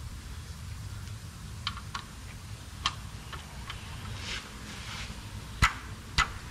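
Scattered metallic clicks and ticks of a wrench and socket at the oil pan drain plug as it is threaded back in, with two sharper metal knocks near the end, over a steady low hum.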